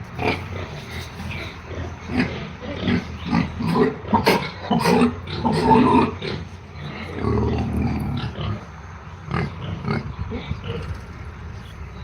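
Pigs grunting in a run of short, irregular calls, busiest and loudest about four to six seconds in.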